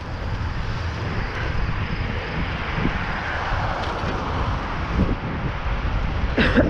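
Wind rushing over the microphone with tyre noise while riding a bicycle, a steady rumble.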